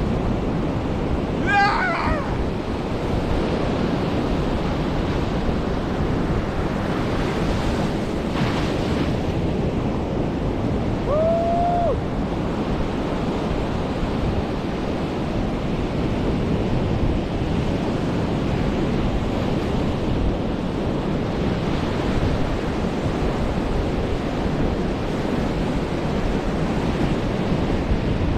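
Ocean surf washing steadily onto a beach, wave after wave. Two brief high-pitched calls come over it, about two seconds in and about eleven seconds in.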